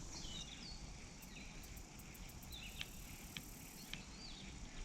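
Quiet outdoor ambience: a few faint bird chirps, high insect ticking with a brief steady insect buzz about three seconds in, and a few soft clicks.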